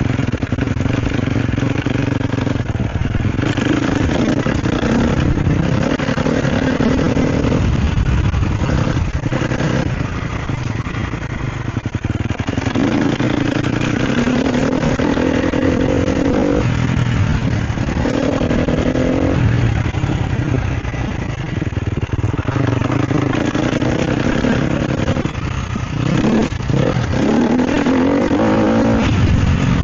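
Sherco SEF 250 four-stroke single-cylinder dirt bike being ridden off-road. The engine note rises and falls again and again as the throttle is opened and closed, with short knocks and rattles from the bike over rough ground.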